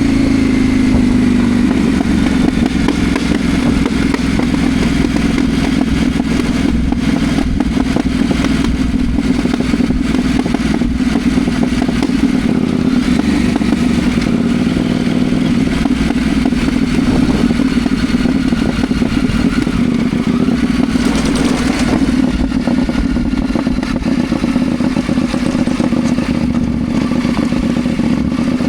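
Ibex 800T motorcycle under way, its engine note easing down in pitch over the first couple of seconds and then holding steady at cruising speed.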